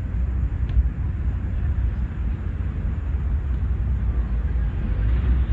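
Outdoor park ambience made up of a steady low rumble with a faint hiss above it, and one faint tick about three-quarters of a second in.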